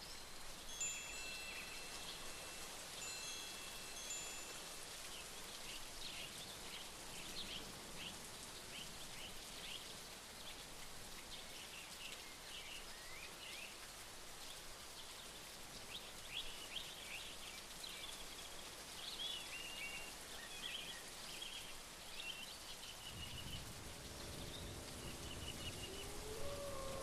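Outdoor nature ambience: a steady hiss like light rain, with many small birds chirping throughout and a few held high whistled notes in the first few seconds. About three-quarters of the way through a low rumble and lower held tones come in.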